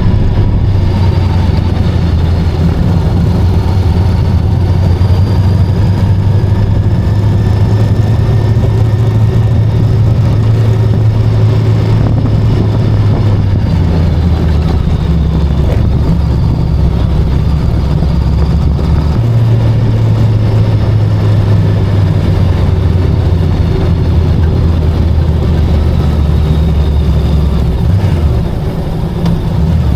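VOGE 525DSX parallel-twin motorcycle engine running under way. The engine note drops about halfway through, climbs again a few seconds later, and the level eases off near the end.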